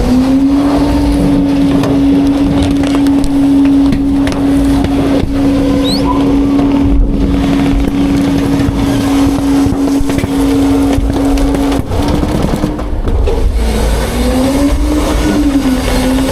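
Autocar-Heil Freedom front-load garbage truck's diesel engine held at raised revs, a steady drone while it drives the hydraulic packer. Around twelve seconds in the revs waver, dipping and rising again near the end.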